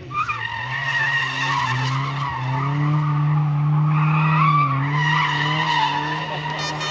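A rally car engine held at high revs while its tyres squeal. The engine note climbs a little a couple of seconds in and dips briefly near the middle.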